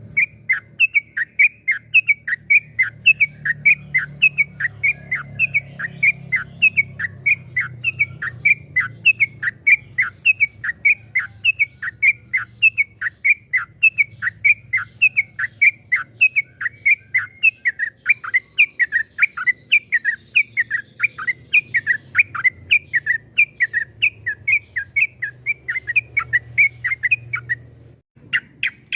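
Sooty-headed bulbul singing a long, unbroken run of rapid whistled notes, each sliding downward, about three a second, breaking off shortly before the end.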